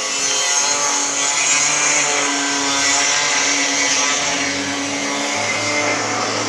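Corn sheller machine with a double blower running: a steady mechanical din of drive and fans over a broad hiss, with a lower hum coming in about five seconds in.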